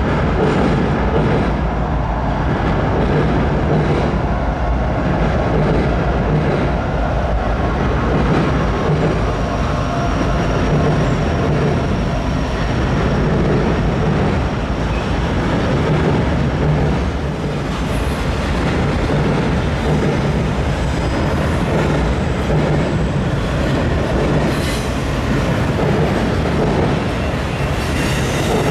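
Freight train of autorack cars rolling across a steel girder bridge: a steady heavy rumble and clatter of wheels on rail. High-pitched wheel squeal comes in intermittently in the second half.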